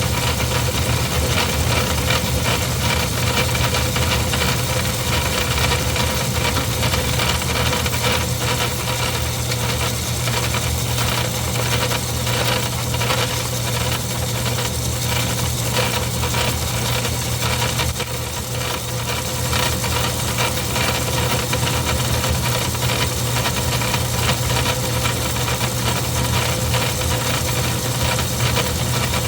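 Craftsman 109 metal lathe running under power: a steady motor hum with a constant whine, over a continuous scratchy rasp of a carbide-tipped tool cutting metal. There is a brief lull about two-thirds of the way in.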